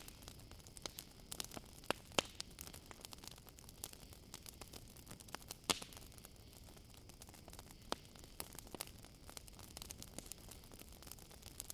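Campfire crackling: irregular sharp pops and snaps, with louder ones about two and six seconds in, over a faint steady high chirring of crickets.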